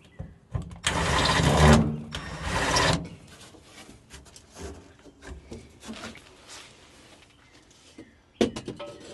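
A small motorised tool whirring in two short bursts, the second lasting about two seconds, then light clicks and knocks of parts being handled, with one sharper knock near the end.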